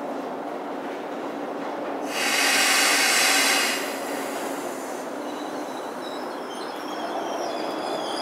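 Metro-North commuter train approaching and slowing into the station, running with a steady rumble. About two seconds in, a loud hiss lasts under two seconds, and from about halfway through thin high squeals from the wheels come in as it draws closer.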